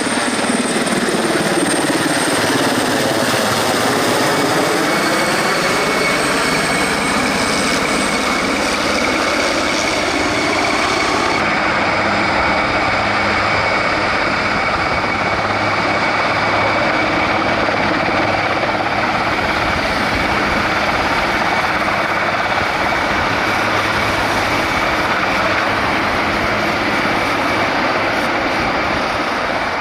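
Turbine aircraft running close by: a steady high whine over a loud, even rush of engine noise, with a swirling sweep in tone during the first ten seconds as it moves.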